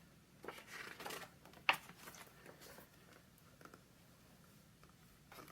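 Paper rustling from handling a book, most likely a page being turned: a soft rustle about half a second in, then one sharp tap a little later, followed by a few faint ticks.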